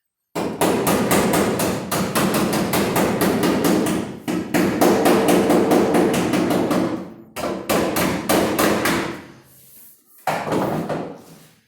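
Hammer blows on sheet-metal auto body panel work, struck quickly at about five blows a second in three runs, the longest first.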